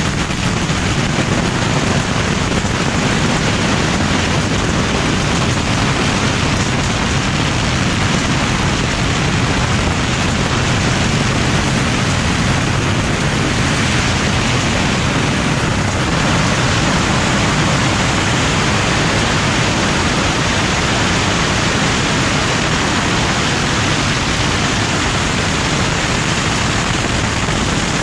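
A beehive firework rack firing a dense, unbroken barrage of bottle rockets: a continuous loud hiss thick with rapid crackles and pops.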